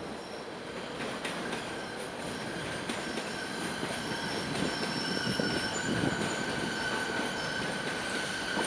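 Electric multiple-unit passenger train rolling slowly past, its wheels squealing in a steady high tone that sets in about a second in, over a rumble and a few clicks from the rails. It grows slowly louder as the train comes closer.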